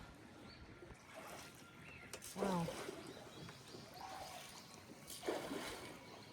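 Faint water sounds around a river punt boat, with a light knock about two seconds in and a soft spoken "wow" just after.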